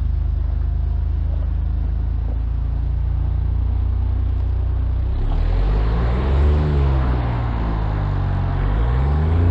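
Side-by-side UTV engine idling steadily, then revved up and back down twice from about five seconds in, with a rushing noise under the revs.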